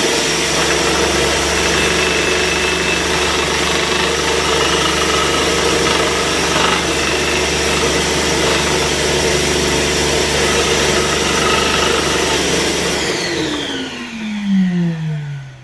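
Electric scroll saw running steadily, its blade cutting through hard fudge. Near the end it is switched off and the motor winds down with a falling pitch.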